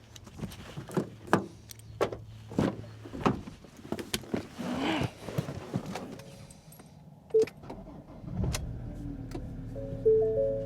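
A series of sharp clicks and knocks, then a vehicle engine starts about eight and a half seconds in and keeps running steadily. Note-like tones begin near the end.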